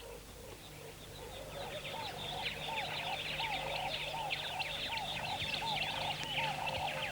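Birds calling: a steady run of short, arched notes, about two to three a second, over a busy background of faint high chirps. The calling swells over the first two seconds.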